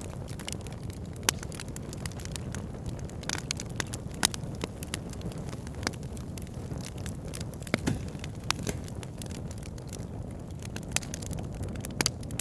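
Fire burning in a fireplace: a steady low rumble with frequent irregular crackles and pops, and a few louder sharp snaps.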